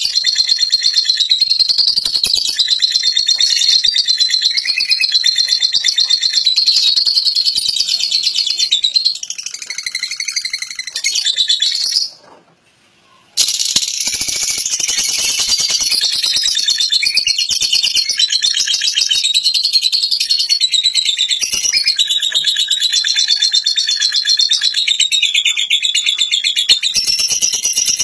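Lovebird giving a long, very rapid, high chattering trill (ngekek). It breaks off for about a second near the middle, then resumes.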